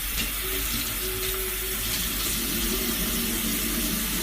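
Kitchen tap running steadily into a sink, an even hiss of water turned on just before.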